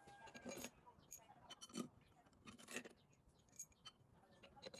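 Faint, scattered clicks and metallic clinks of tools and small parts being handled during truck air compressor repair work.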